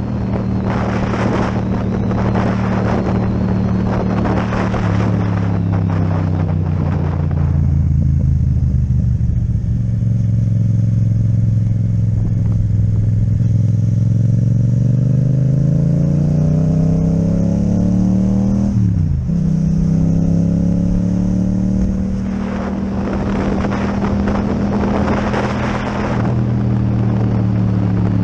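Yamaha MT-07's parallel-twin engine with an Akrapovic exhaust, running under way. The revs climb steadily, then drop sharply in a gear change about two-thirds of the way through. Gusts of wind noise on the microphone come at the start and again near the end.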